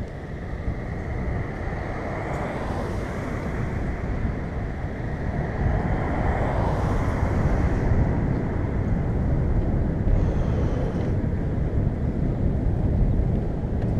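Wind buffeting the microphone of a camera riding along on a moving bicycle, a steady low rumble with road noise. The noise swells twice, a few seconds in and again around the middle.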